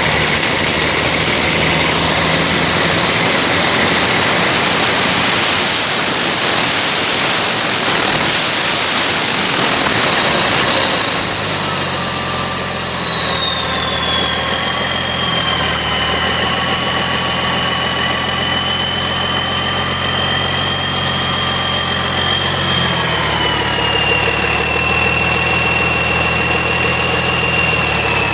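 Caterpillar 3406C diesel engine running on test, revved up with three quick throttle blips, then settling back to a steady idle. A high whine climbs with the engine speed, rises and falls with each blip, then drops away as the revs come down.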